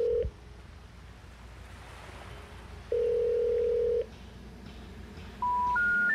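Electronic beeps: a long steady beep ending just after the start, another about a second long about three seconds in, then three short beeps stepping up in pitch near the end, like an interval timer's countdown.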